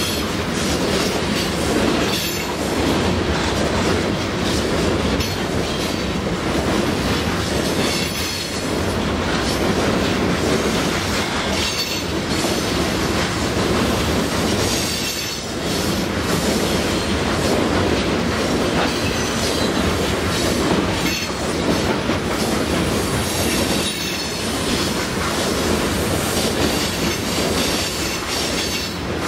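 Canadian National ore train's cars rolling past at speed: a steady rumble of wheels on rail with rhythmic clicking, and high-pitched wheel squeal coming and going every few seconds.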